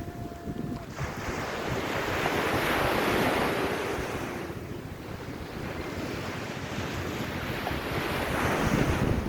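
Sea waves washing onto the beach, the rush swelling and falling back twice, with wind buffeting the microphone.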